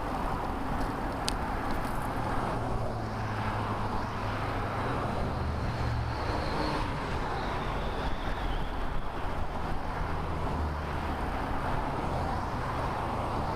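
Wind rushing over a bicycle-mounted camera's microphone while riding in road traffic, with a motor vehicle's low engine hum from about two to ten seconds in. A single sharp click just over a second in.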